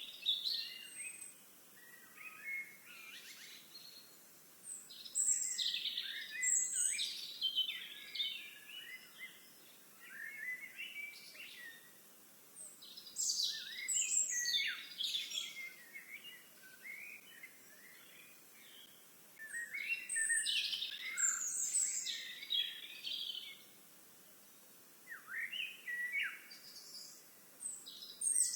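Songbird singing outdoors in repeated bursts of quick, high chirps and trills, each burst lasting a few seconds with short pauses between, over a faint steady background hiss.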